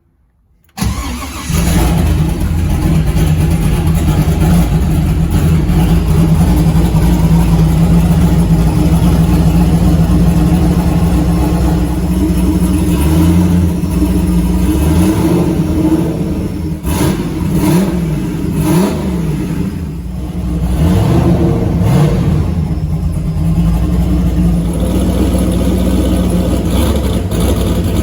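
Turbocharged Gen 3 4.8-litre LS V8 in a Fox-body Mustang firing up about a second in and running steadily, its revs rising and falling a few times in the second half, on its first start after the swap.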